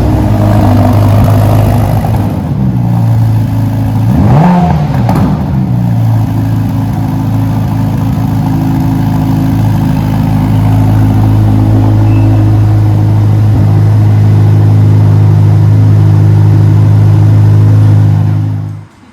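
Ferrari Roma's twin-turbo V8 running loudly at a steady idle, with one quick rev blip about four seconds in. The sound cuts off suddenly near the end.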